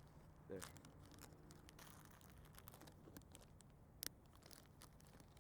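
Near silence with faint crinkling and clicking from a small plastic evidence bag being handled and closed, and one sharp click about four seconds in.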